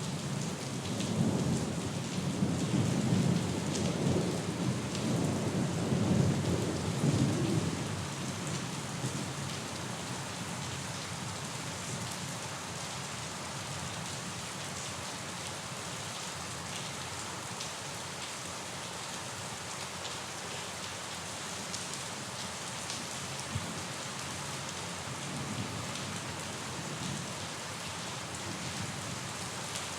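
Steady rain falling, with thunder rumbling low and loud over the first several seconds before dying away to rain alone; a faint distant rumble returns near the end.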